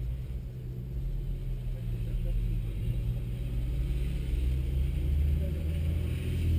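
Car engine running steadily at low revs, a low hum heard from inside the rally car's cabin that grows louder over the last few seconds.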